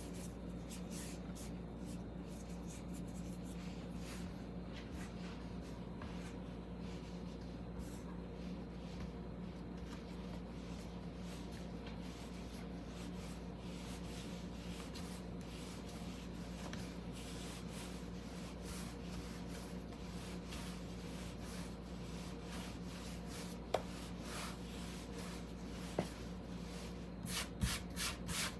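Repeated soft rubbing and scraping of hand food preparation, over a steady low hum, with a few light knocks near the end.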